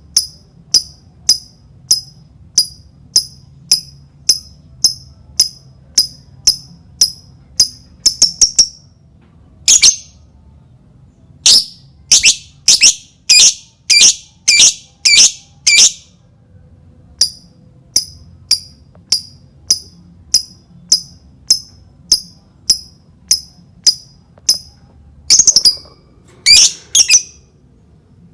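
Lovebird calling: a steady series of short, sharp high chirps at about two a second. These give way to runs of longer, louder calls about ten seconds in and again near the end.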